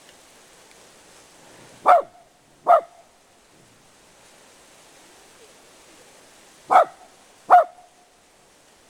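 Dog barking: two pairs of short barks, each pair about a second apart, the second pair about five seconds after the first.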